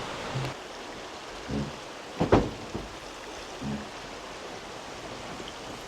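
Steady rushing outdoor ambience with a few faint low sounds, and a single sharp knock a little over two seconds in.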